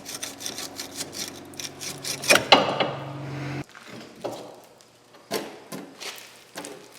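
Power tool, likely an impact wrench, running on a leaf-spring bolt with a steady whine and rapid rattle, with a couple of louder knocks, then stopping abruptly about three and a half seconds in. Scattered metal knocks and clicks follow as the bolt and spring are worked loose.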